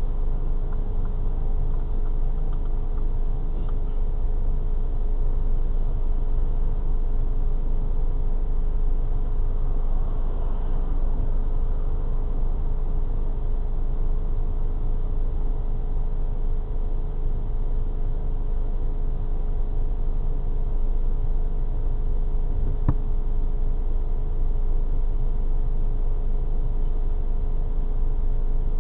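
Car engine idling steadily while the car stands still, heard from inside the cabin as a low rumble with a faint steady hum, and one brief click about 23 seconds in.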